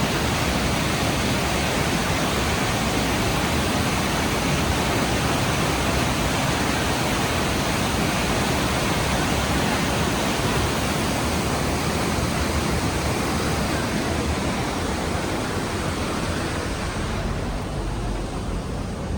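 Rhine Falls waterfall, a loud, steady rush of falling water. Near the end the hiss thins out and the sound turns duller and slightly quieter.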